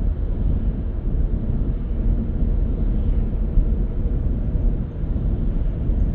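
Steady low rumble of a moving car's road and engine noise while driving, with no distinct events.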